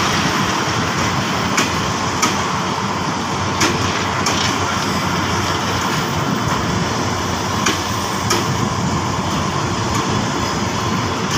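Passenger train coaches rolling slowly past: a steady rumble of steel wheels on the rails, with sharp clacks, mostly in pairs about half a second apart, as the wheelsets cross rail joints.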